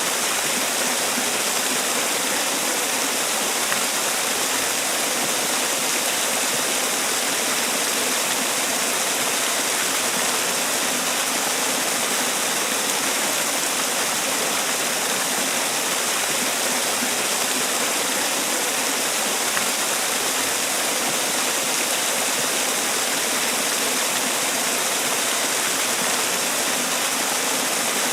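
Man-made waterfall: water falling and splashing in a steady, even rush, with the hiss strongest in the high range.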